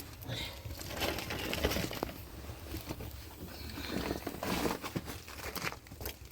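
Irregular crinkly rustling of something being handled, with a few light knocks.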